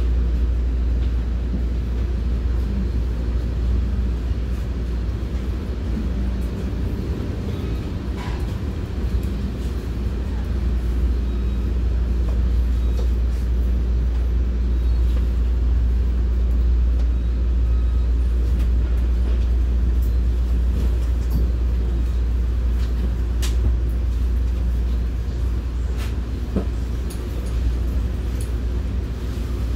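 Commuter train heard from inside a passenger coach: a steady low rumble, with a few faint clicks and knocks, about 8, 23 and 26 seconds in.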